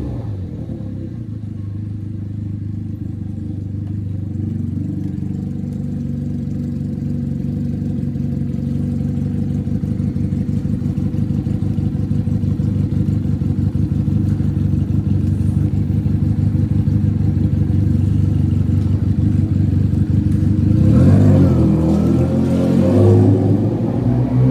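Benelli 302's parallel-twin engine running through a free, straight-pipe exhaust with no silencer. It holds a steady pitch while slowly growing louder, then the revs rise and fall a few seconds before the end.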